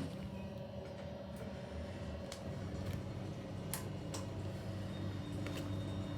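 ThyssenKrupp lift car travelling down between floors: a steady low hum with a few light clicks scattered through it.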